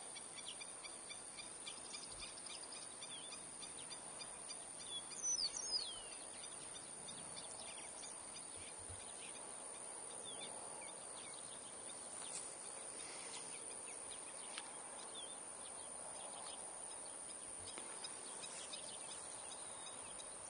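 Birds calling over a pond: a quick series of short, sharp calls, the close calls of black-necked stilts, runs through the first half. About five seconds in comes a meadowlark's song, a short phrase of falling whistles, the loudest sound here.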